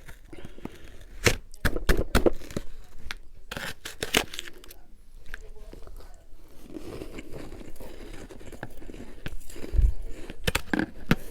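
Close-up crunching and chewing of a mouthful of refrozen freezer frost: sharp, uneven crisp crunches as it is bitten down, with softer chewing between them.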